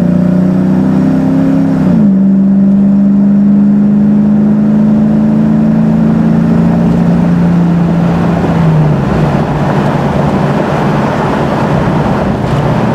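Jeep Grand Cherokee ZJ's 5.2 Magnum V8, breathing through an Air Gap intake and Big Gulp throttle body and exhausting through a Magnaflow X-pipe dual exhaust, pulling hard at about half throttle. The pitch drops sharply about two seconds in at a gear change, then the engine note holds and falls away about nine seconds in as the pull ends, leaving a steady rushing noise.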